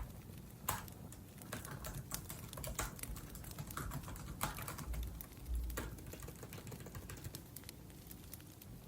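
Typing on a laptop keyboard: irregular runs of light key clicks, with a few louder keystrokes.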